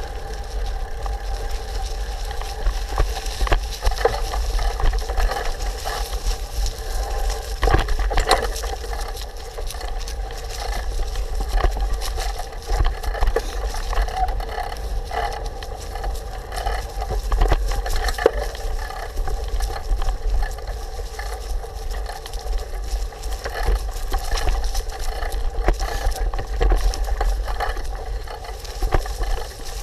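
Riding a bicycle along a rough trail: a steady low rumble of wind and vibration on the microphone, with a constant hum and many small clicks and rattles.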